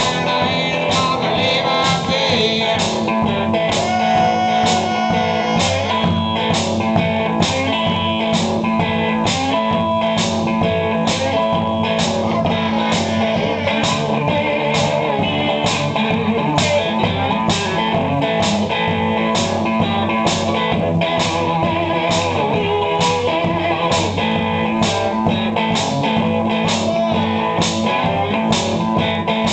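Live blues-rock music: guitar playing over a steady beat of about three beats every two seconds.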